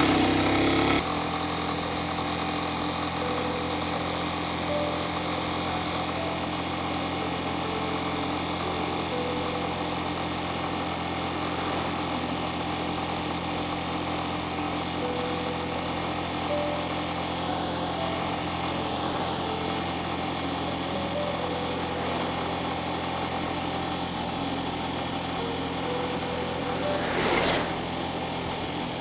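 Engine idling steadily, with a brief louder rush of noise about two seconds before the end.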